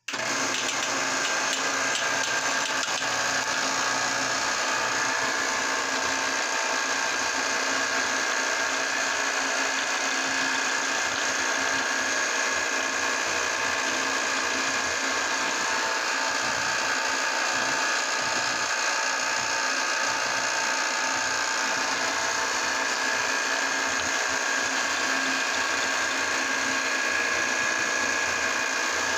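Electric meat grinder motor switched on and running at a steady, even whine, grinding ice cream.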